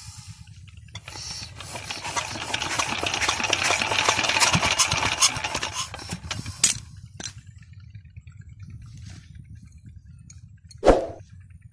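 Old 16 hp Petter diesel engine being hand-cranked: it spins up with a dense rapid chatter for a few seconds, then winds down without firing. The owner blames the failure to start on leaking valves in the head. A single loud metallic clang comes near the end.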